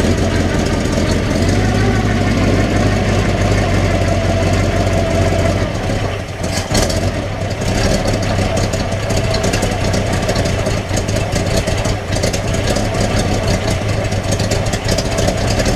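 Ford 460 big-block V8 running at a steady idle, not yet timed or tuned after a bent pushrod and collapsed lifter were replaced. The level dips briefly about six seconds in, then the running turns rougher with a fine ticking.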